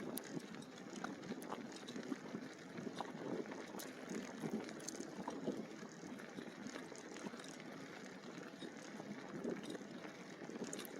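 Bicycle tyres rolling along a rough dirt trail: a steady crackling rustle with many small scattered ticks.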